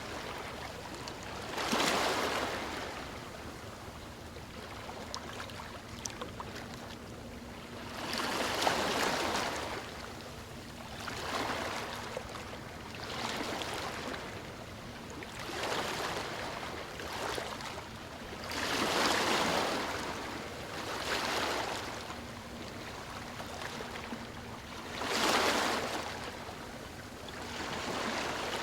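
Gentle ocean waves lapping on a shore, each wash swelling and falling away every few seconds, with stronger ones about 2, 9, 19 and 25 seconds in.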